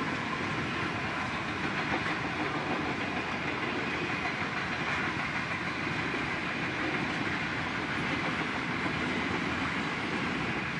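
Long container freight train rolling past, a steady noise of its wagons' wheels running on the rails.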